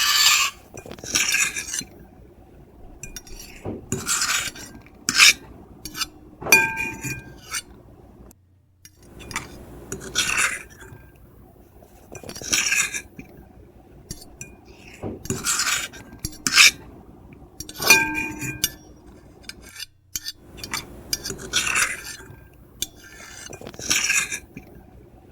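Metal fork and knife scraping and scratching across a plate in irregular strokes, a few of them giving a brief high-pitched squeal.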